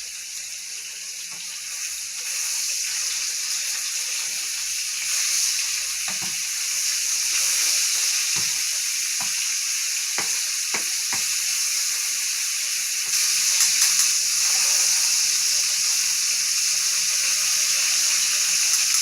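Seasoned chicken pieces searing in hot oil and butter in a pan: a steady sizzle that grows louder about two seconds in and again past the middle, with a few light utensil clicks.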